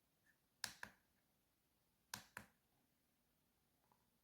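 Button on a jump starter power pack pressed twice, each press a quick double click of press and release, stepping the unit through its inflation settings.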